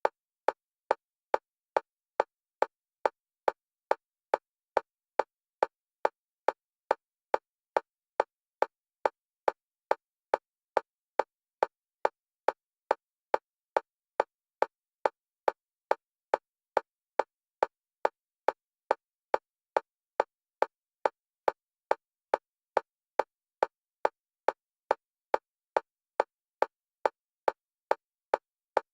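Fast metronome click track for EMDR bilateral stimulation, with short, identical clicks at a steady rate of about two a second. The clicks alternate between the left and right stereo channels.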